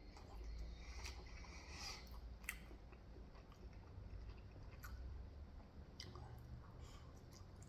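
Faint chewing of food with the mouth close to the microphone, with scattered soft mouth clicks and small crunches.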